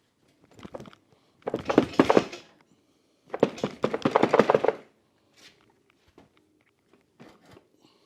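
Hand tools and parts being worked: two bursts of rapid clicking and rattling, each about a second long, with a few lighter knocks before and between them.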